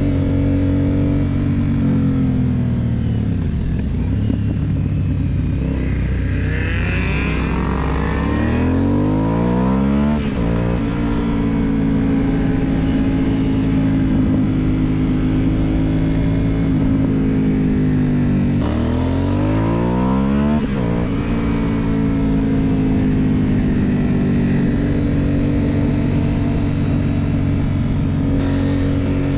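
Aprilia Dorsoduro 750's V-twin engine on a mountain descent. The engine note drops away about three seconds in, then revs climb twice in quick runs, about a third of the way through and again about two-thirds through.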